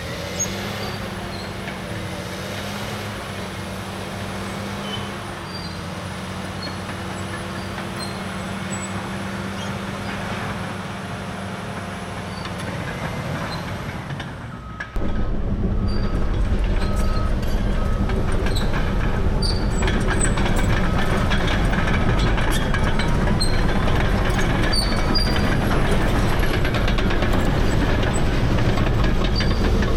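Caterpillar D6R dozer's C9 diesel engine running steadily under work. About halfway through the sound cuts suddenly to a louder, deeper rumble, with a short repeating beep for several seconds.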